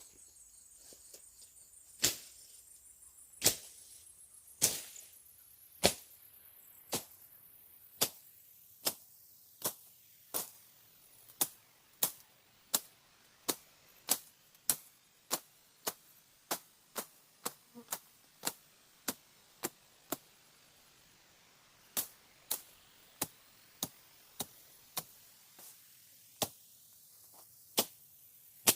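A long series of sharp clicks or knocks, irregular, about one to two a second, with a short pause about twenty seconds in.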